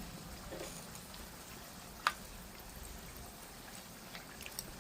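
Hot oil frying in an electric pan: a faint steady sizzle with scattered small pops, and one sharper pop about two seconds in.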